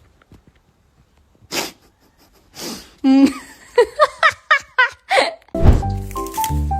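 Two short breathy bursts, then a quick run of short high-pitched calls from a voice, each falling in pitch. Music with a steady bass and a stepping melody starts near the end.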